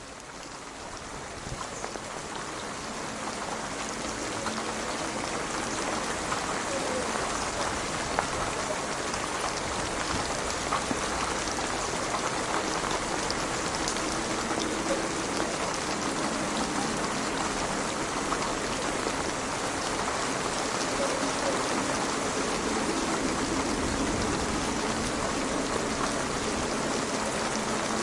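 Steady rain falling, fading in over the first few seconds.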